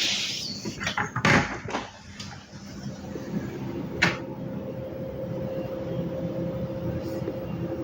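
A sliding window being handled: several knocks and clatters in the first two seconds and one more about four seconds in, over a steady low hum.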